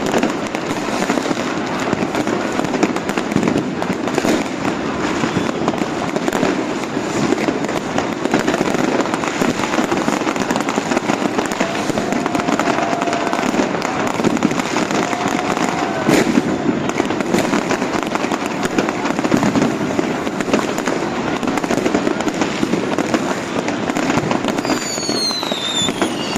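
New Year's Eve fireworks and firecrackers going off all around in a dense, unbroken crackle of bangs and pops. Near the end a few whistling rockets sound, their whistles falling in pitch.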